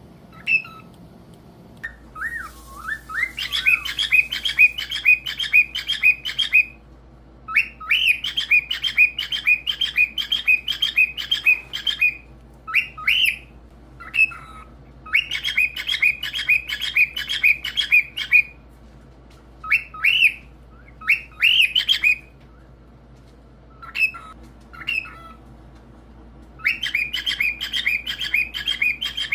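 Pet cockatiel whistling: phrases of quick, evenly repeated whistled notes, about four a second, each lasting a few seconds, with short single calls in between.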